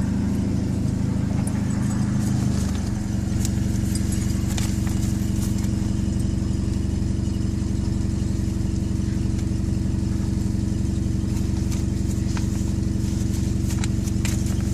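Car engine idling steadily, heard from inside the cabin: a low, even hum that shifts slightly about two and a half seconds in, with a few faint clicks over it.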